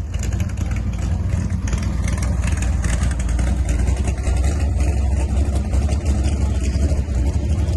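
Big-block methanol engine of a burnout van running hard and steady through a burnout, with a fast low pulsing and a constant rushing noise over it.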